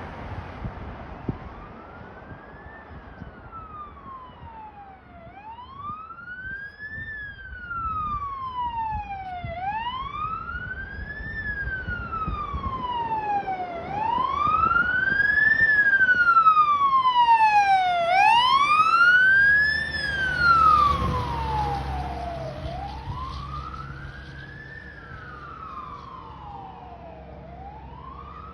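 Fire engine siren on a slow wail, rising and falling about every four seconds. It grows louder as the engine approaches, peaks as it goes by, then fades away. A steady lower tone and a low rumble come in near the loudest point.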